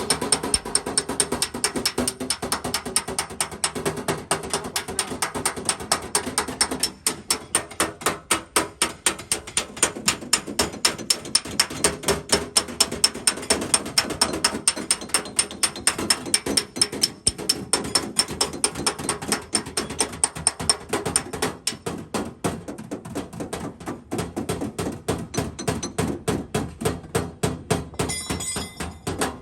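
Rapid, even tapping of a metal tool on a car body panel, about four to five light strikes a second without a break, as the dent is worked out cold without repainting.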